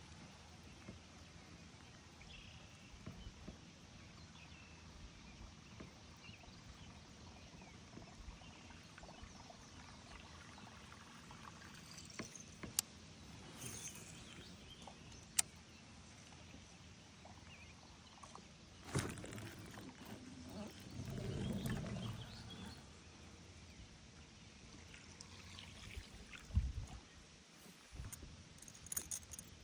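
Quiet water sounds around a kayak, with faint trickling, a few sharp clicks and a soft knock, and a louder stretch of low rushing noise about two-thirds of the way through.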